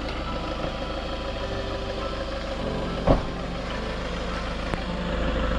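Camper van engine running under load as the van tries to drive out of soft sand, its wheel spinning against wooden boards laid under it. A short knock about three seconds in, and the engine gets a little louder near the end.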